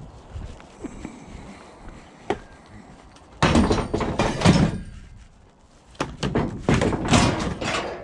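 Two loud bursts of banging and clattering, about three and a half and six seconds in, each lasting over a second, with a single knock before them: scrap pieces and the van's doors being handled at the back of a van.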